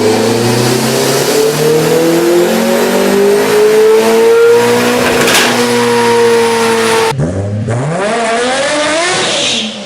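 Car engine pulling hard on a chassis dyno, its pitch climbing steadily for about five seconds and then holding. About seven seconds in it cuts to another car revving in quick rising and falling sweeps.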